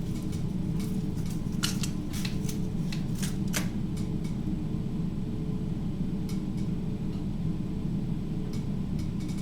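Light clicks and rattles, clustered in the first few seconds with a few scattered later, over a steady low hum.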